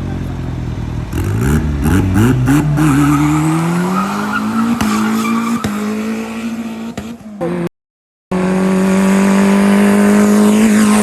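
Drag-racing car engine accelerating hard, its pitch climbing and dropping back at each gear change. The sound cuts out for about half a second about two-thirds of the way in, then the engine holds a steady high note at full throttle.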